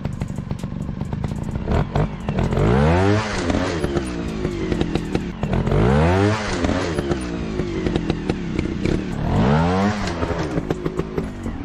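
Motorcycle engine revving up and back down three times, a few seconds apart, over a steady rattling clatter.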